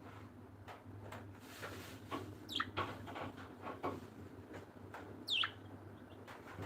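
Small birds calling: two sharp, quick downward-sweeping calls about three seconds apart, among faint scattered chirps and clicks, over a low steady hum.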